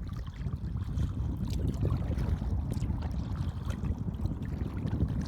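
Wind buffeting the microphone, a dense, gusting low rumble.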